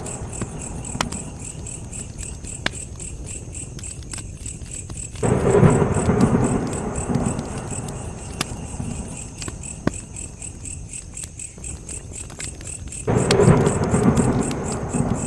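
Campfire crackling with frequent sharp pops, over a steady high chirping of crickets. Two low rumbling swells rise suddenly, about five seconds in and again near the end.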